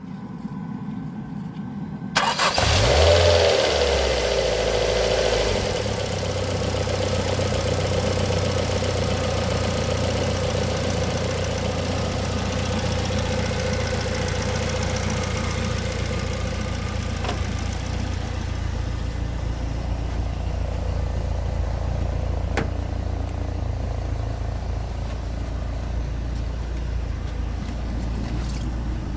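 Ford Fiesta engine being started warm: the starter cranks for about two seconds, the engine catches with a sudden loud burst, flares up in revs and settles within a few seconds into a steady idle. It is being run so that freshly added thick oil and a sealer in the cooling system circulate, as a test against its smoking when warm.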